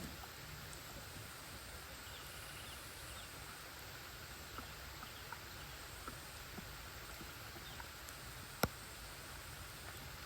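Outdoor riverside ambience: a steady soft hiss with scattered small ticks and a few faint high chirps, and one sharp click about eight and a half seconds in.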